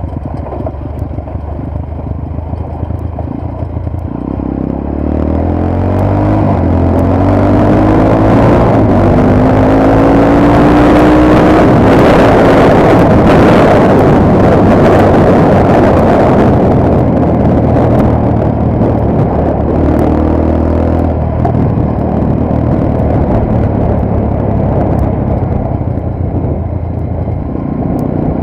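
Motorcycle engine running under way, with strong wind rush on the microphone. The engine pitch climbs as the bike accelerates through the first half, the wind is loudest around the middle, and both ease off toward the end.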